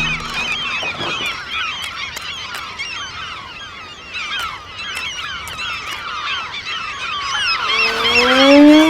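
A large flock of seagulls calling all at once, a dense din of many overlapping short cries. Near the end a fiddle comes in with a long rising bowed slide.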